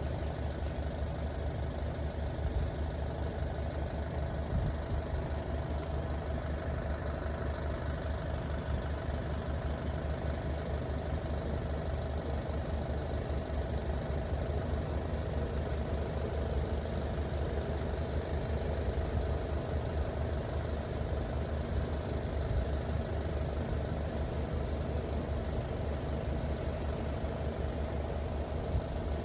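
An engine idling steadily, a low unbroken hum with no change.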